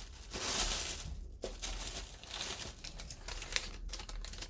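Plastic packaging crinkling as it is handled, with irregular rustles and crackles throughout.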